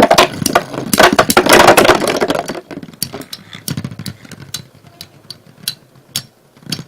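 Two Beyblade Metal Fusion spinning tops battling in a plastic stadium: a dense clatter of rapid metal-on-metal clashing and grinding for the first couple of seconds, then sparser separate knocks as they keep spinning and hitting each other and the stadium wall.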